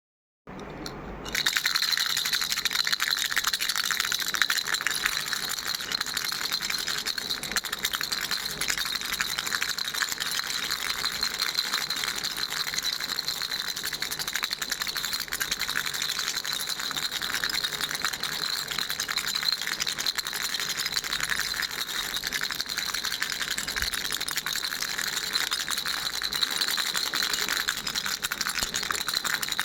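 Pink plastic ball-shaped baby rattle shaken steadily, a dense, continuous rattling of small beads inside that starts about a second and a half in.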